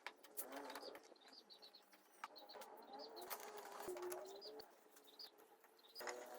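Faint bird calls: soft wavering cooing with short high chirps.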